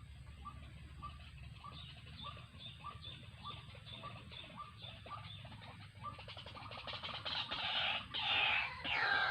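White-breasted waterhen calling: a steady run of short repeated notes, about three a second. From about six seconds in, louder, denser calling with falling notes takes over.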